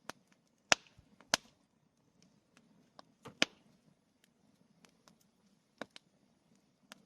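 Wood campfire crackling: scattered sharp pops and snaps, the loudest within the first second and a half and another pair about three and a half seconds in, over a faint low background.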